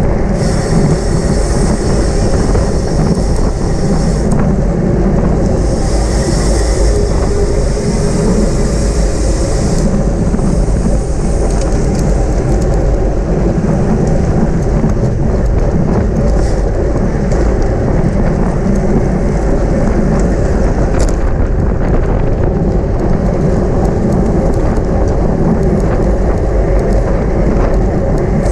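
Loud, steady wind rushing over the microphone, with the low rumble of a bicycle moving at race speed. A high whirring sound comes and goes twice in the first ten seconds.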